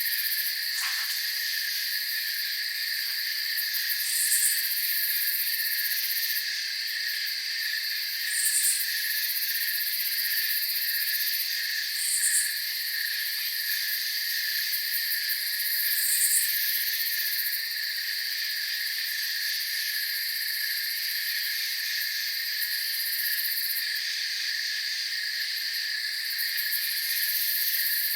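Night chorus of crickets trilling continuously in several steady high-pitched layers. A short, higher chirp stands out about every four seconds for the first half.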